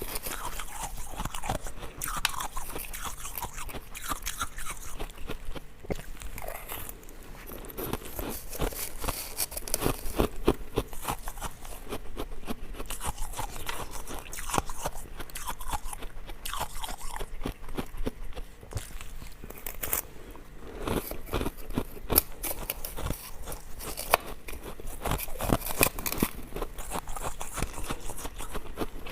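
Ice cubes being bitten and chewed close to the microphone: a steady run of sharp, irregular crunches and cracks.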